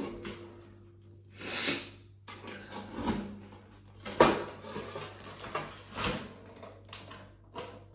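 Thin sheet-metal panels of a folding fire pit being handled and fitted together: a series of scrapes, clicks and clanks, the sharpest about four seconds in.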